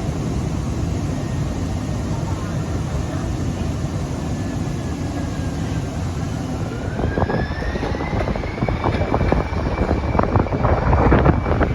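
Light rail train's electric traction motors: a steady low rumble, then a whine that rises in pitch about halfway through and levels off as the train pulls away, with rattling clicks over the last few seconds.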